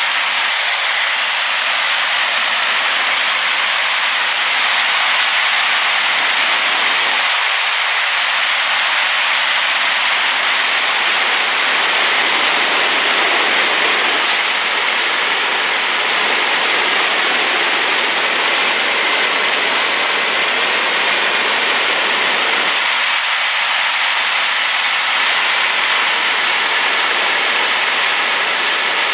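Waterfall on a rainy day, a loud steady rush of falling water from a river swollen and muddied by the rain.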